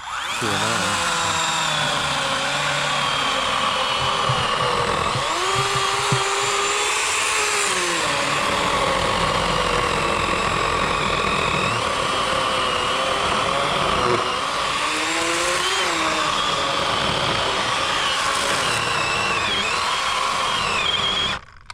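WORX WG384.9 40-volt cordless electric chainsaw with an 18-inch bar cutting through a large fallen log, running steadily for about twenty seconds. Its motor pitch dips and recovers a couple of times as the load in the cut changes. It starts abruptly and stops sharply just before the end.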